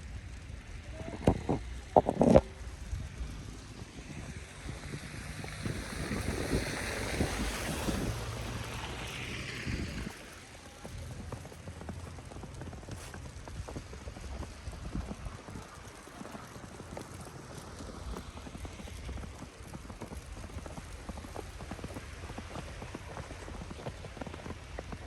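Footsteps crunching through snow, with wind rumbling on the microphone. A few loud knocks come about two seconds in, and a rushing sound swells and fades between about six and ten seconds.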